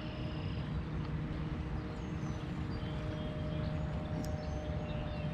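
Outdoor river ambience: a steady wash of noise with a faint low hum, and a few short, high bird chirps scattered through it.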